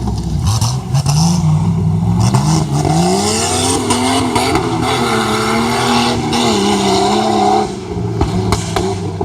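Jeep Grand Cherokee's engine revving hard under throttle: its pitch climbs over the first few seconds, holds high, then falls away as the throttle is let off near the end.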